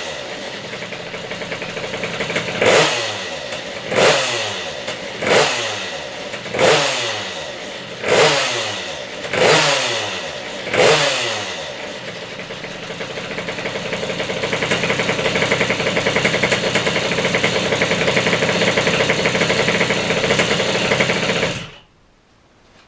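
Minibike engine revved in about seven sharp blips, each dropping back before the next. It is then held at a steady higher speed for several seconds before the sound cuts off abruptly near the end.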